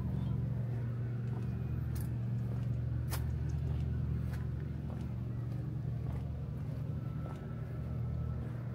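A motor vehicle's engine idling nearby, a steady low hum that does not change. A few sharp clicks fall in the first half.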